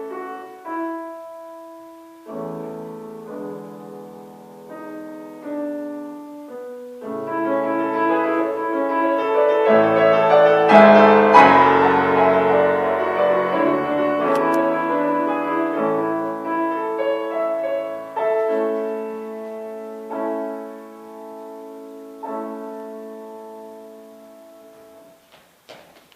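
Solo piano playing a slow, lyrical piece in sustained chords. It swells to a loud climax about eleven seconds in, then softens and ends on a held final chord that dies away.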